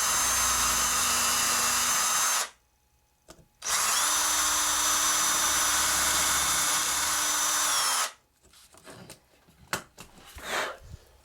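Electric drill boring a small pilot hole through thin metal O gauge tubular model train track: two runs, a short one that stops about two seconds in and a longer one after a second's pause, then a few clicks and knocks as it is set down.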